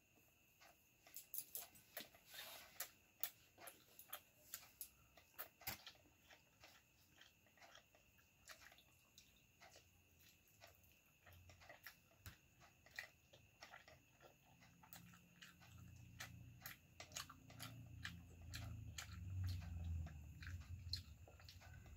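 Faint mouth sounds of a child chewing soft pasta and fried egg: scattered small wet clicks and smacks, thickest in the first few seconds and sparser after. A low rumble comes in over the last several seconds.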